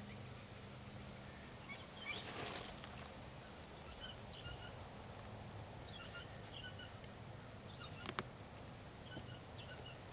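Quiet outdoor background with a small bird chirping now and then, short high notes repeated every second or two. There is a brief rustle about two seconds in and a single sharp click about eight seconds in.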